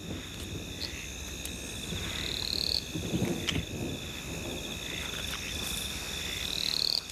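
Night chorus of crickets and frogs: a steady high chirring with a pulsed trill that rises in pitch twice, and a faint low rustle about three seconds in.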